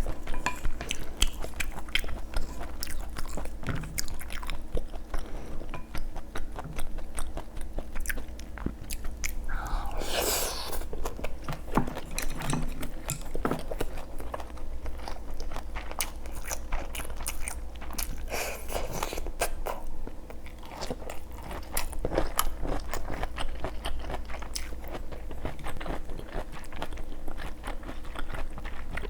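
A person chewing and crunching food close to the microphone, a dense run of small wet crunches and clicks, with a brief louder noise about ten seconds in.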